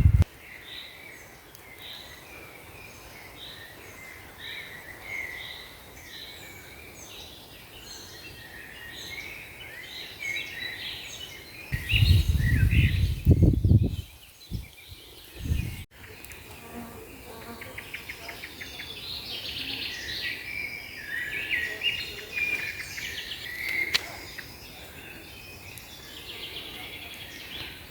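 Several small birds singing and chirping, with short repeated notes. About halfway through, a brief loud low rumble.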